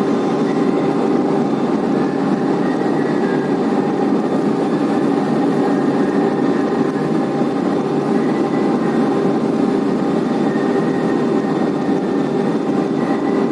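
Steady drone of a blast furnace's main charging conveyor and its drives running, with several constant humming tones over a continuous rumble.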